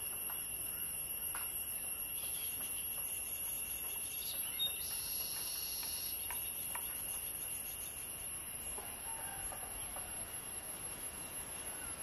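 Scattered short bird calls and chirps over a steady high-pitched ringing.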